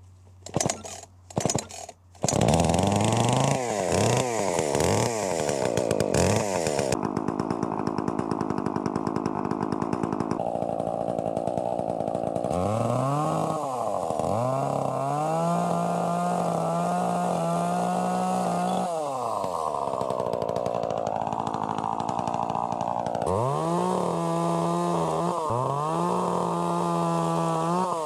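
Two-stroke chainsaw being pull-started, with a few short pulls before the engine catches about two seconds in. It then runs, revving up and down repeatedly between stretches of steadier running.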